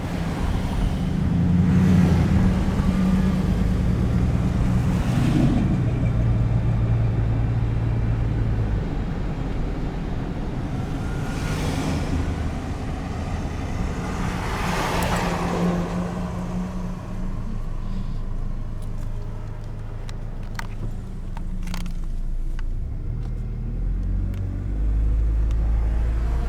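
Car driving, with engine hum and road noise heard from inside the cabin, swelling several times as it picks up speed or other traffic goes by, and a few light clicks near the end.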